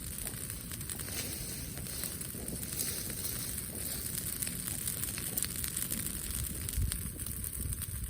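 Outdoor bonfire burning, crackling steadily with many small scattered pops over a low rumble.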